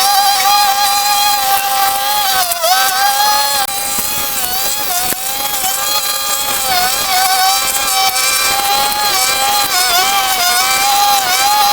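A small motor or engine running at high speed with a steady whine, its pitch dipping briefly every second or two as if it takes load.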